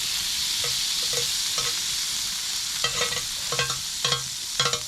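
Food sizzling over a campfire: a steady hiss, with sharp spitting pops and crackles coming thicker from about halfway through.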